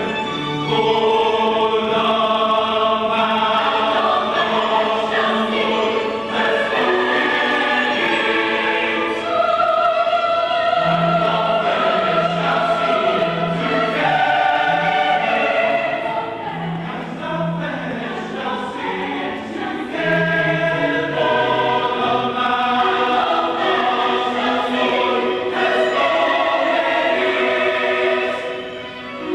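A choir singing a classical sacred piece in several parts, with long held notes moving between chords.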